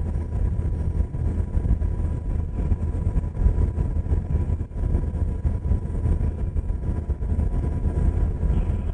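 UH-60 Black Hawk helicopter in flight: its rotor and turbine engines make a steady, loud, deep rumble, heard from inside the aircraft.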